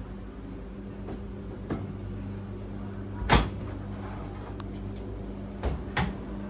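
A few short knocks and clunks of things being moved about while searching through garage gear, the loudest about halfway through and two close together near the end, over a steady hum.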